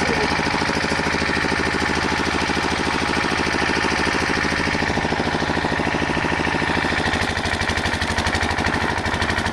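Engine running steadily, with a fast, even knocking pulse.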